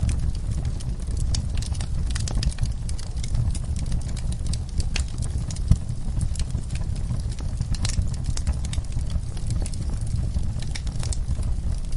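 Wood fire crackling, with frequent sharp pops and snaps scattered irregularly and one louder pop about six seconds in, over a steady deep low rumble.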